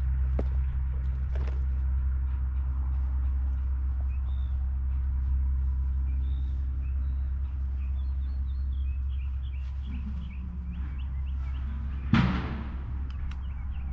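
Small birds chirping: many short, high chirps from about four seconds in, over a steady low rumble. Near the end comes one sudden, louder sound that fades within half a second.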